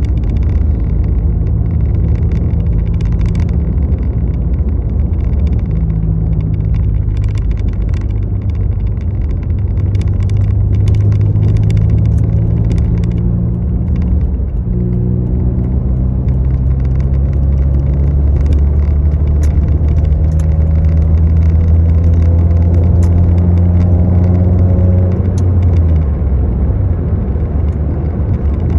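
Car engine running while driving, a steady low drone whose pitch shifts about halfway through, climbs slowly and falls away again near the end, as with a gear change.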